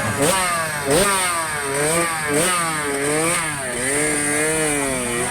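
Several racing dirt-bike engines revving, overlapping one another, their pitch climbing and dropping again and again as they go through the gears.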